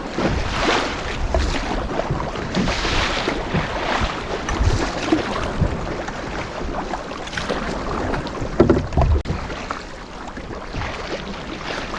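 Canoe being paddled through choppy lake waves: irregular splashing and slapping of water, with wind buffeting the microphone.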